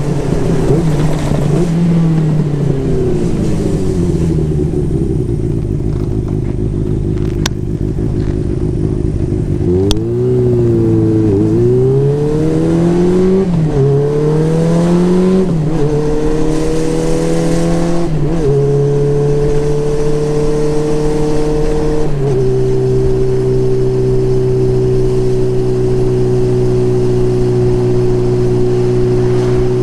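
Motorcycle engine heard from the bike while riding: the engine slows down, runs low for a few seconds, then accelerates through several gear changes, each a rise in pitch followed by a drop, and settles into a steady cruise for the last third.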